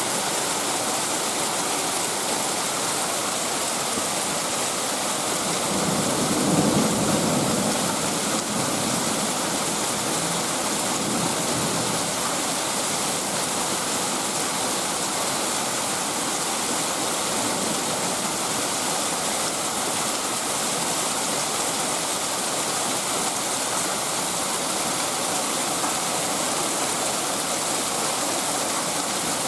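Heavy rain of a thunderstorm pouring down in a steady hiss, with a low rumble of thunder swelling briefly about six seconds in.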